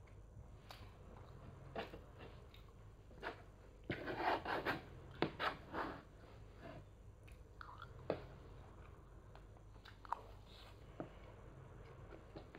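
A child eating: chewing, with scattered small clicks. The eating noises come in a louder cluster about four to six seconds in.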